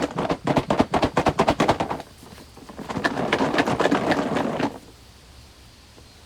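A fast run of sharp knocks, several a second, for about two seconds, then a second stretch of noisy clatter that stops abruptly about three-quarters of the way through.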